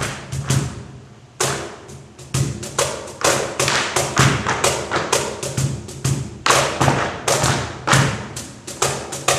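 Tap shoes striking a wooden stage in a quick, uneven rhythm of sharp taps and heavier stamps, with a short pause about a second in.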